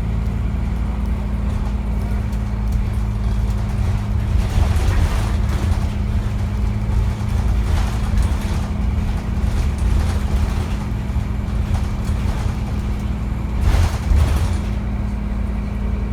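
Scania N230UD double-decker bus running steadily on the road, a constant low engine hum heard from on board, with a few brief louder rattling surges.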